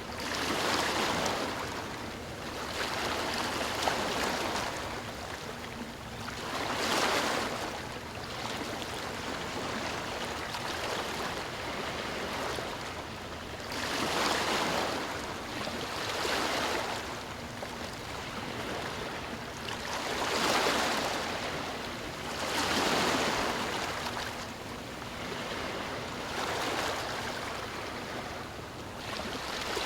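Ocean waves breaking and washing on a shore, a swell of surf every few seconds rising and falling away.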